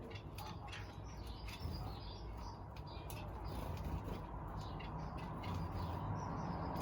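Small aviary birds chirping and twittering in many short, quick calls, over a low rumble that grows louder toward the end.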